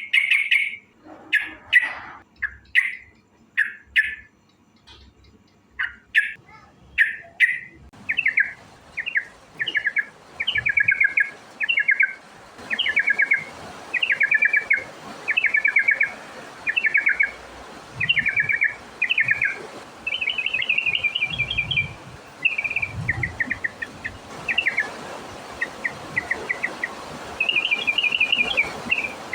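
Yellow-vented bulbul (trucukan) singing: short chirping calls at first, then about eight seconds in, quick trilled phrases repeated roughly once a second over a hissy background.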